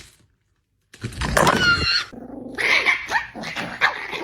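A dog barks once, loudly, about a second in, followed by rougher, quieter dog noises.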